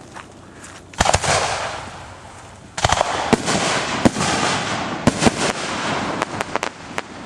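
Aerial fireworks shells going off: two sharp bangs about a second in, then from about three seconds a dense run of bangs and crackling that thins out near the end.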